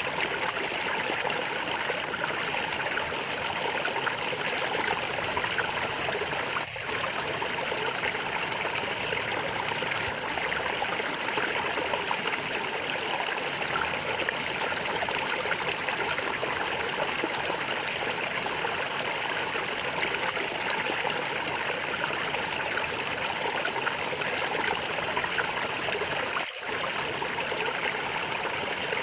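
Small stream of water gurgling and trickling steadily, the sound dipping for an instant twice.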